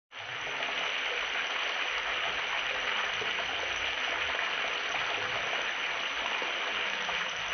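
Chicken deep-frying in hot oil: a steady sizzle with fine crackling throughout.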